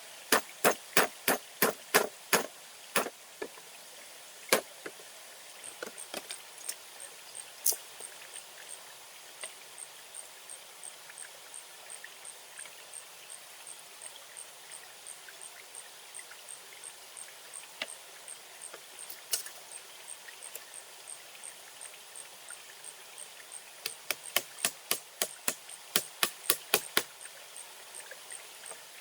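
Sharp knocks in quick runs of about three a second, with a run at the start and another near the end and scattered single knocks between. A faint high ticking keeps a steady beat of about two a second underneath from a few seconds in.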